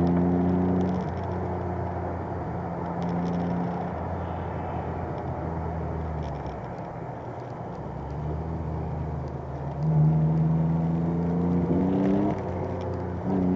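Alpine A310 V6's V6 engine running hard. Its pitch drops about a second in and it eases off through the middle, then climbs steadily, with sudden drops in pitch near the end that sound like gear changes.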